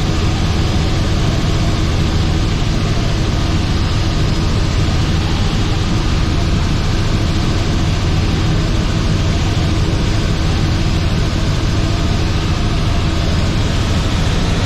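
Robinson R44 helicopter's six-cylinder piston engine and rotors running steadily, a loud even noise with a strong low hum.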